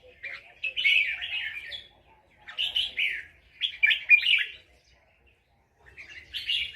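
Red-whiskered bulbul singing: short, quick warbled phrases with brief pauses between them, and a longer pause just before the last phrase.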